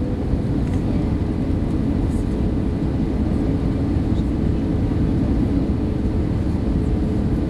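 Airbus A320 airliner on its landing approach: a steady roar of jet engines and rushing air, with a faint steady hum running through it.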